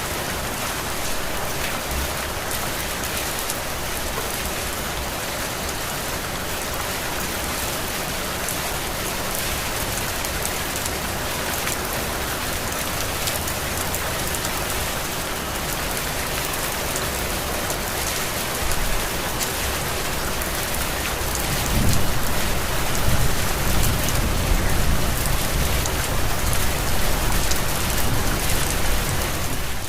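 Heavy rain falling steadily on a surface. About two-thirds of the way through, a low rumble rises beneath it and carries on almost to the end.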